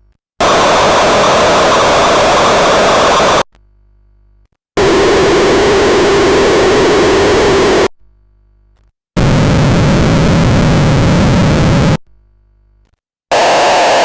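Sovage Engineering Oxymoron Eurorack module's outputs played in turn: loud, harsh synthesizer noise, each output about three seconds long with a short silent gap between them. Each output has a different character, one with a strong low band and one with more low rumble.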